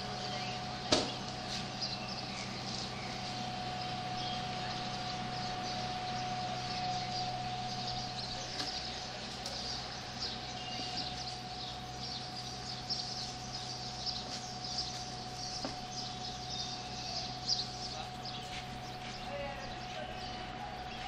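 Small birds chirping, many short twittering calls on and off throughout, over a steady faint hum. A single sharp click about a second in.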